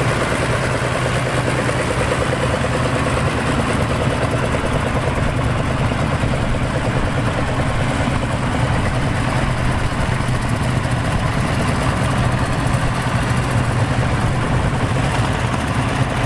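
Vintage tractor engines running steadily at low revs, a constant low engine hum.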